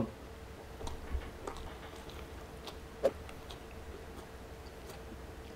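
A person chewing a mouthful of chili cheese burger: faint, irregular mouth clicks, with one sharper click about three seconds in.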